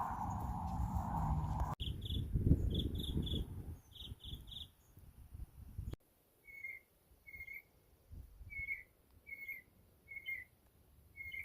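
Songbird chirping. Quick groups of two or three short high notes come first, then a steady series of single lower, slightly down-slurred chirps about once a second. A low rumble on the microphone is the loudest sound in the first few seconds.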